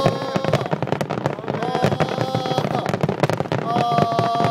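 Wide starmine fireworks barrage: a dense, unbroken run of rapid bangs and crackles from many shells bursting at once. Drawn-out voices rise over it three times.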